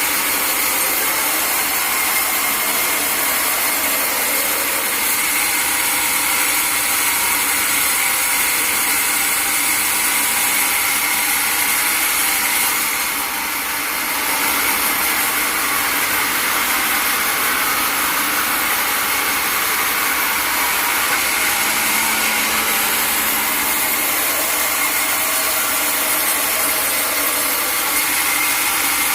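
Sawmill saw running through a log: a loud, steady, hissing machine noise with one steady high tone in it, dipping briefly about halfway through.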